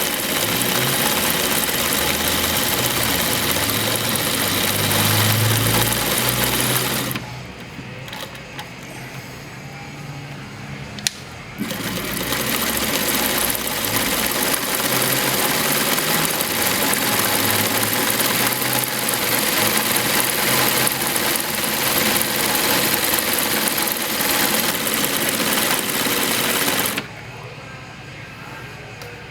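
Atlas USA AT2284 industrial three-step zigzag sewing machine running at a steady speed. It stops for a few seconds, a single click is heard, and then it runs again for about fifteen seconds before stopping near the end.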